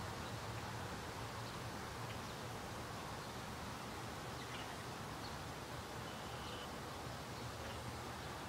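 Steady outdoor ambience: an even hiss over a low steady hum, with a few faint, short bird chirps.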